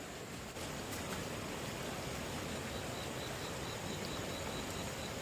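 Steady rush of flowing stream water, with a faint, high, evenly pulsed insect call coming in about halfway through.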